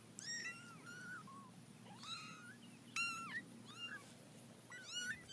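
Cat mewing: a string of short, high calls, each rising then falling in pitch, repeated several times, faint.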